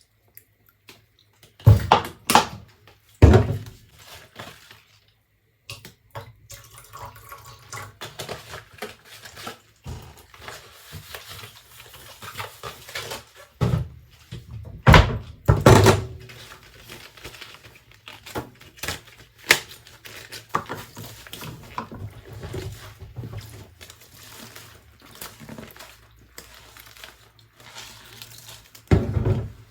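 Dishes being washed by hand at a sink: dishes and pans knock and clatter, loudest a couple of seconds in, about halfway through and near the end, with quieter handling and water noise between.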